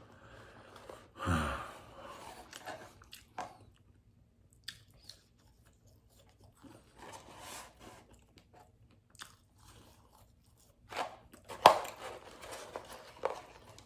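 A man chewing a mouthful of fast food close to the microphone, with scattered crunchy mouth sounds. The louder bursts come about a second in and again about 11 to 12 seconds in.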